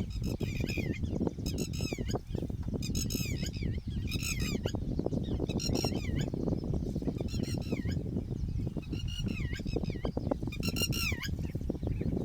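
Red-wattled lapwing alarm calling: short runs of sharp, high notes that slide down in pitch, repeated every second or so. This is the parent's alarm at a threat to its chick. A steady low rumble runs underneath.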